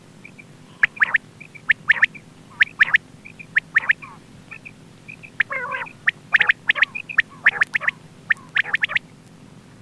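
Quail calling: short, sharp notes repeated in quick groups of two or three, roughly once a second, with softer notes between the groups and a brief pause midway.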